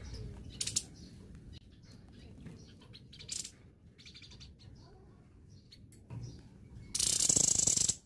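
Caged songbird giving short, scattered chirps and calls while it flutters and hops about its perch, then a loud, harsh, noisy burst lasting about a second near the end.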